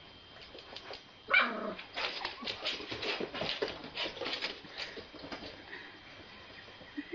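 A dog gives one loud, falling yelp about a second in, followed by a run of quick clicks and scuffles.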